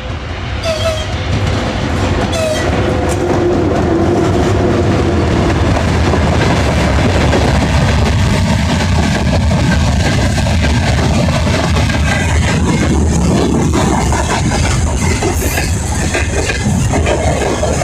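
Soviet-built VL80T twin-section electric locomotive hauling a freight train, a loud steady rumble of wagons and wheels on the rails that builds over the first two seconds. Two short horn toots sound in the first three seconds.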